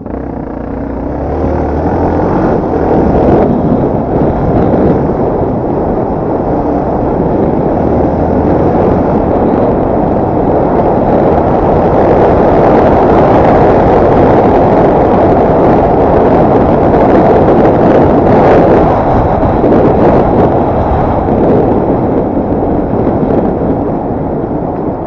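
Dirt bike engine running under way, mixed with loud, steady wind rush on the microphone while riding.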